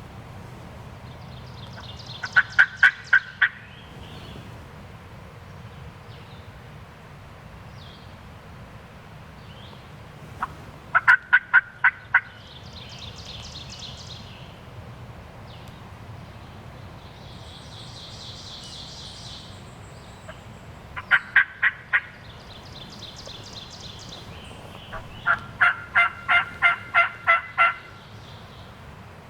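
Turkey yelping: four runs of quick, evenly spaced yelps, each a few notes to nearly a dozen long and several seconds apart. The last run is the longest. Fainter high bird calls come in between the runs.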